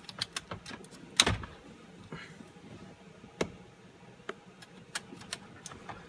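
Hands swapping automotive relays in an under-dash relay box: scattered plastic clicks and knocks as the relays are pulled out and pushed back into their sockets, with a sharper knock about a second in and another about three and a half seconds in.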